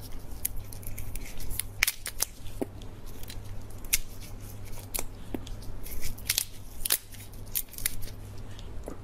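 Lobster shell being cut and cracked open, a string of sharp, irregular snips and cracks.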